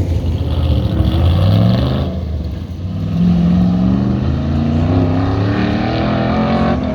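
A race vehicle's engine accelerating hard on an autocross course: the pitch climbs for about two seconds, drops briefly, then climbs again through a second long pull.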